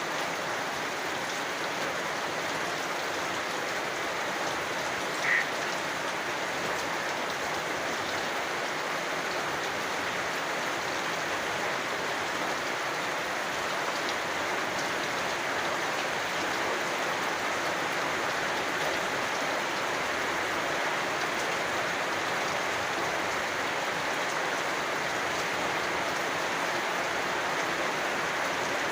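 Steady rain falling, an even patter and hiss. About five seconds in, a single short high call rises above it, a frog calling once.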